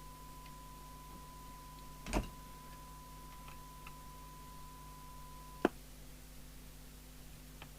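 A steady single-pitch test tone, of the kind used to modulate a radio on the bench during transmit alignment, which cuts off with a sharp click about five and a half seconds in. A knock about two seconds in, and a few faint ticks.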